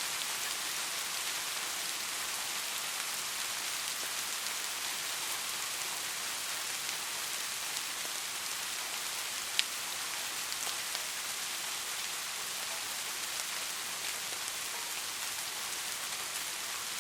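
Steady rain falling, an even hiss with scattered drop ticks and one sharper drop hit about halfway through.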